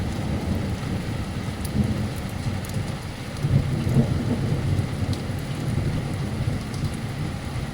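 Heavy rain pouring down in a thunderstorm, with a low rumble of thunder that swells about three and a half seconds in and then fades back.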